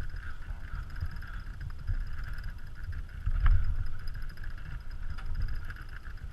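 Wind buffeting the microphone aboard a sailboat under way, a gusty low rumble over a steady hiss, with one sharp knock about three and a half seconds in.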